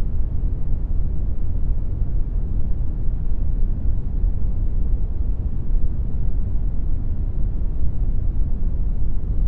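Steady computer-generated brown noise: an even, deep rushing hiss weighted toward the low end, unchanging throughout.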